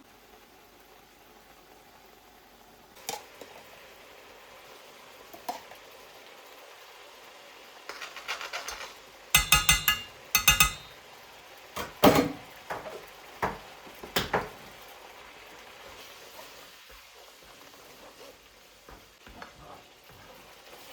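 Kitchen food-preparation sounds: a few light clicks, then two loud rattling bursts about halfway through, followed by knocks of dishes and utensils, one ringing briefly.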